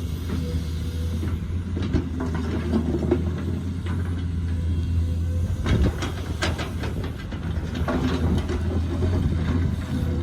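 Excavator's diesel engine running with a steady low drone, with scattered sharp knocks and clanks of the machine at work, in clusters about a second in, past the middle and near the end.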